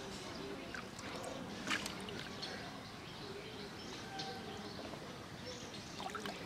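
Outdoor background noise with faint distant voices and a few short clicks or splashes.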